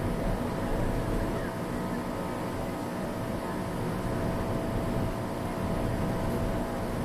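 Steady background rumble and murmur with a few faint steady hums, and no firework bursts.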